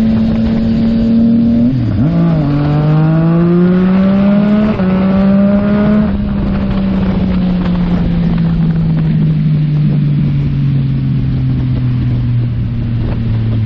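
Yamaha MT-09's three-cylinder engine through a Yoshimura AT2 full exhaust, accelerating: the note dips briefly about two seconds in, then the revs climb until about six seconds in, and after that the pitch falls slowly as the bike eases off.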